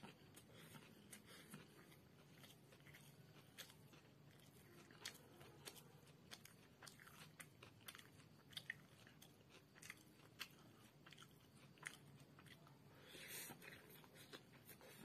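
Faint close-up chewing of chicken chow mein noodles with raw onion and cucumber, eaten by hand: a scatter of small crisp crunches and mouth clicks, with a brief louder noisy sound near the end as another mouthful goes in.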